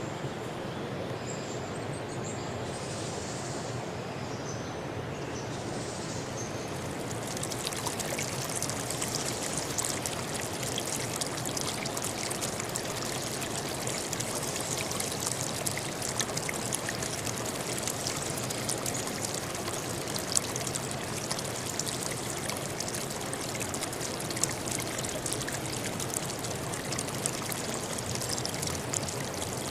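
River stream flowing and splashing over rocks: a steady rush of water with many small splashes. About seven seconds in, the rush grows brighter and a little louder. Faint high bird chirps sound in the first few seconds.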